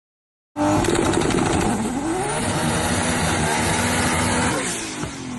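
VW Golf Mk5 R32's VR6 engine revving loudly through its exhaust, the pitch dipping and rising, holding steady, then falling away near the end.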